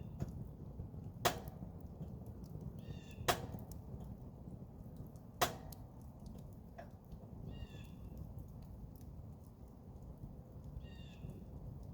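Campfire burning with a steady low rush, and three sharp pops of burning wood in the first half. A short, high animal call, most likely a bird, repeats about every four seconds.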